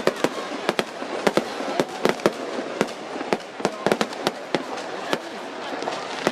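Fireworks display exploding in rapid, irregular sharp bangs and crackles, several a second, over a steady background noise.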